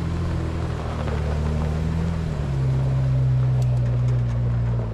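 A vehicle engine running steadily. Its note changes and it gets a little louder about halfway through.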